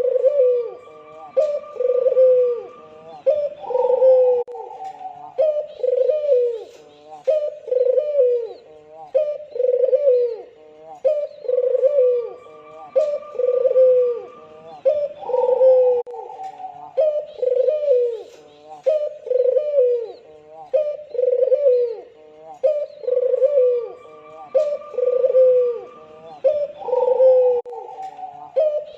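Albino Barbary dove (puter) cooing over and over, about one short, falling coo a second, with fainter higher notes between the coos.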